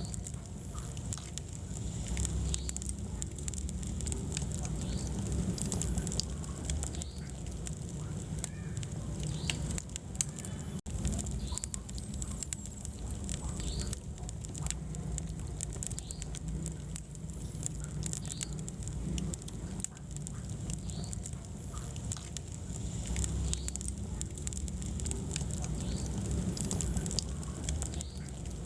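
Wood fire burning in a fireplace: a steady low rumble of flames with frequent small crackles and pops from the burning logs. The sound cuts out for an instant about eleven seconds in.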